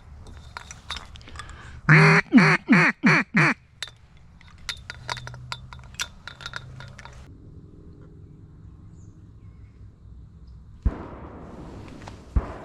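A duck call blown in a fast series of five loud, descending quacks, a hunter's calling to circling ducks. Small clicks follow, and two sharp thumps come near the end.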